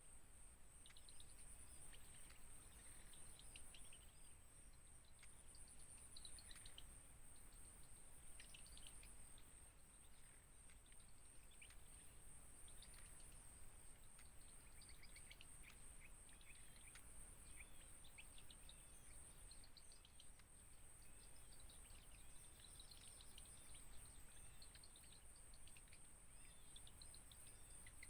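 Faint, scattered high bird chirps with a steady high-pitched insect drone behind them, over a low outdoor background hiss.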